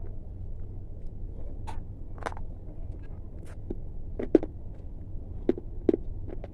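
Scattered sharp crunches and crackles at irregular intervals over a steady low hum, with the loudest pair a little past the middle.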